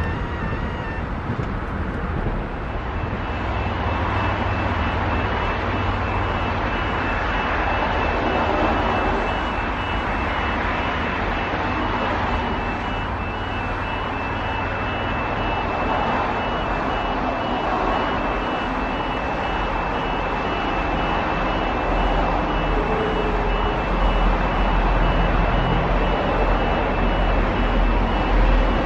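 Steady outdoor background noise with a faint steady high tone. From about three-quarters of the way through, the low rumble of an approaching diesel freight locomotive builds and grows louder.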